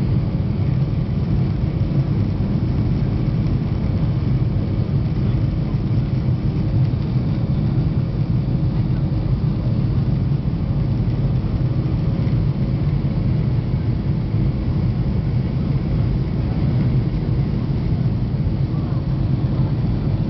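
Airliner cabin noise during take-off: the jet engines and airflow make a steady, even rumble with a few faint steady tones above it.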